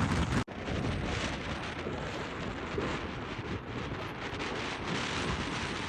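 Fierce mountain wind buffeting the microphone: a steady rushing noise, broken by a brief dropout about half a second in.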